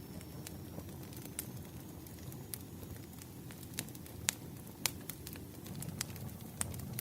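Wood fire in a fireplace crackling: irregular sharp pops and snaps, a dozen or so, over a steady low rumble of the flames.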